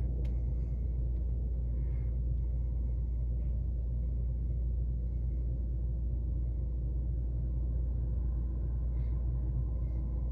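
A steady low rumble, even throughout, with no distinct events.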